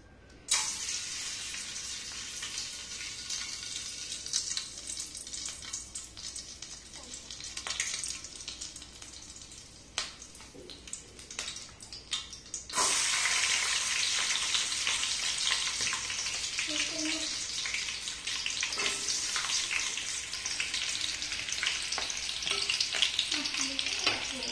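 Food sizzling in hot cooking oil in a pan. The sizzle starts suddenly about half a second in, eases off, then jumps louder again about 13 seconds in and keeps going, with occasional clicks of stirring.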